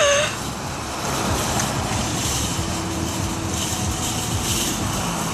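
A car driving, with steady road and engine noise. A brief voice-like cry sounds right at the start.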